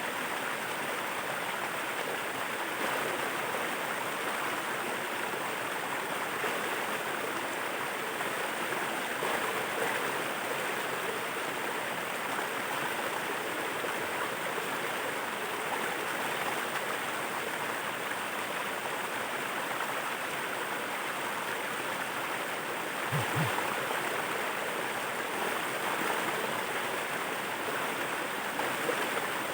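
Small waterfall: water pouring and rushing steadily. A brief low thump comes about three-quarters of the way through.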